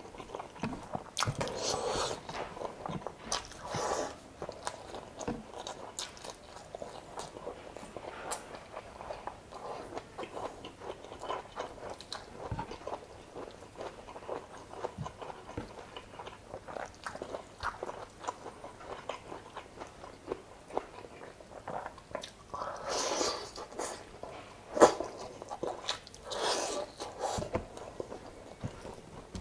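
Close-up mouth sounds of a person chewing chicken adobo and rice: wet smacking and soft crunches, with fingers picking at the food. The chewing grows denser in two stretches, and one sharp click near the end is the loudest sound.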